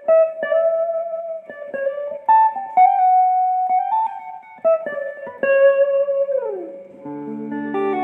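Legend Les Paul–style electric guitar playing a single-note melody: picked notes, some held, then a downward slide about six seconds in, after which chords ring out.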